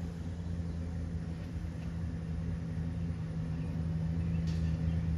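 A steady low machine hum, getting slightly louder over the few seconds.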